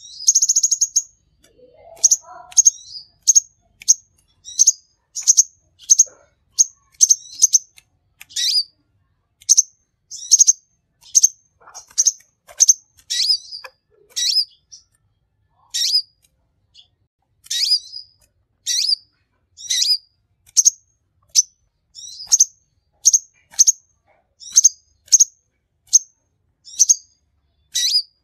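A konin sunbird (kolibri) singing: a long run of short, sharp, high chirps, about one or two a second, opening with a brief buzzy trill.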